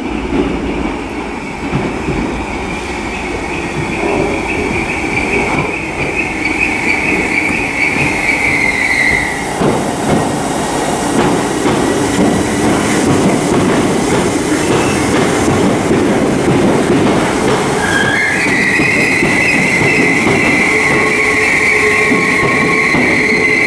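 Merseyrail electric multiple unit arriving through an underground station, the wheels rumbling and clattering on the rails. A high, steady wheel squeal carries for the first several seconds, drops out, and returns about three quarters of the way in as the train runs along the curved platform.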